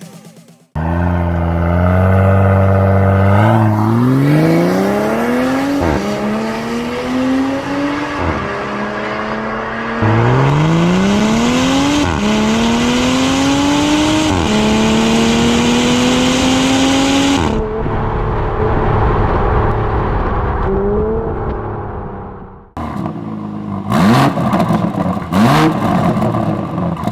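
BMW X5 40i's turbocharged 3.0-litre inline-six through an iPE valvetronic catback exhaust, accelerating hard with the pitch climbing and dropping at each of several upshifts, then running steadily. After a sudden cut near the end, the engine is revved in two or three quick blips.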